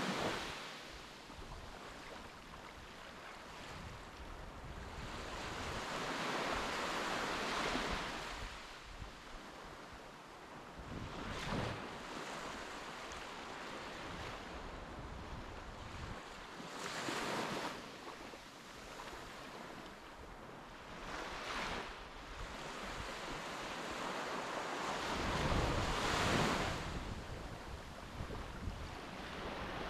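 Sea waves washing onto the shore in several swells, the loudest near the end, with wind buffeting the microphone.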